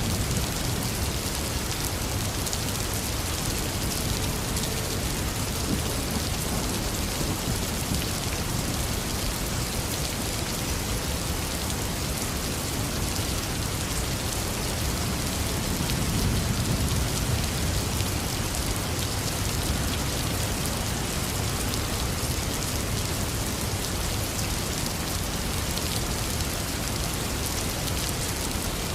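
Heavy rain falling steadily and pattering on surfaces, with a low swell of distant thunder rumbling about halfway through.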